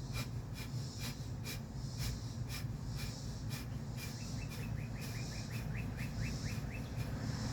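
Rapid, forceful nasal exhales of Kapalabhati breathing, about two a second, each a short sharp puff with a passive inhale between. About four seconds in, a bird chirps a quick run of short notes in the background.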